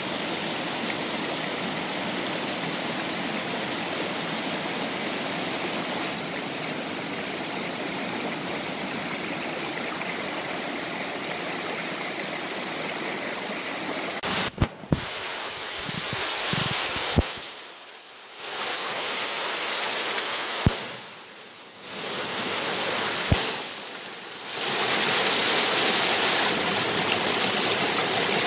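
Stream water rushing over a small waterfall, a steady wash of noise. About halfway through, a few sharp clicks and three short drops in level break it up, and near the end the water is louder and brighter.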